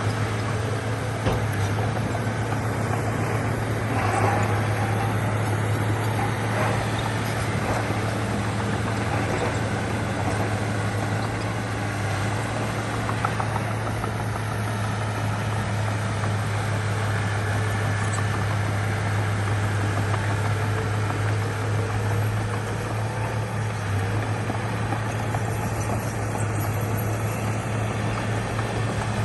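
Heavy diesel earthmoving machinery running steadily, a deep, even engine hum with a few faint knocks.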